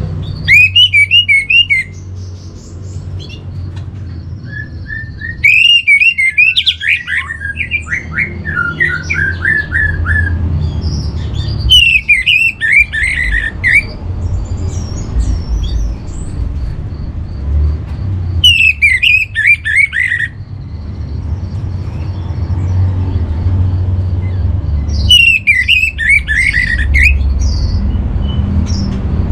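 Orange-headed thrush singing: short, fast, warbling phrases repeated every six seconds or so, one of them longer, over a steady low rumble.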